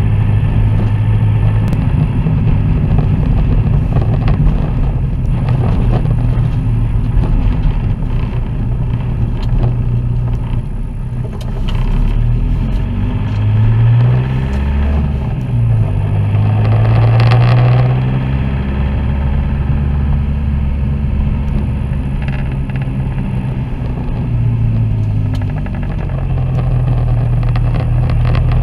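Vehicle engine running while driving, heard from inside the cabin, with tyre and road noise. The engine note dips about halfway through and then climbs again as the vehicle speeds up.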